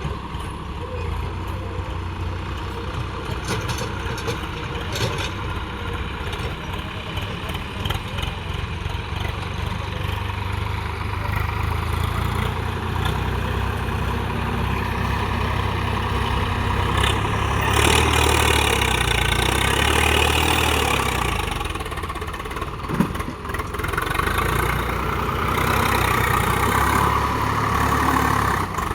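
Swaraj 744 XT tractor's diesel engine running steadily, growing louder and harsher for a few seconds past the middle and again near the end, with one sharp knock in between.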